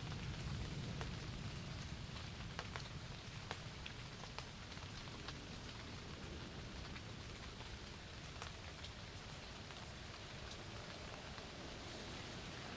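Steady rain falling on a tent, with scattered single drops ticking on the fabric.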